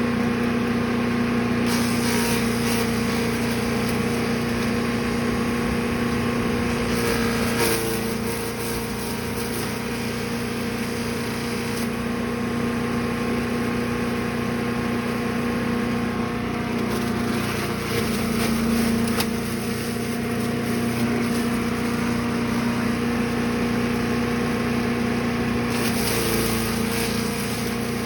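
Brush Master 3-in-1 wood chipper/shredder's gas engine running steadily under a constant hum, with a few stretches of louder, hissy crackle as material goes through the machine.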